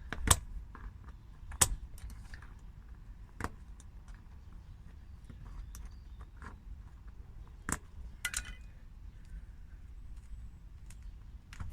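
Sharp metallic clinks and knocks of small tools being picked up and set down, about five separate hits over a steady low rumble.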